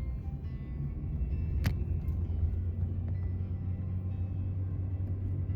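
A car driving, heard as a steady low rumble that gets a little stronger about a second in, with one sharp click partway through.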